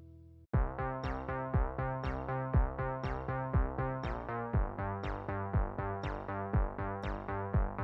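Background music: a sustained piece fades out, and about half a second in an electronic track with synthesizer notes and a steady beat starts.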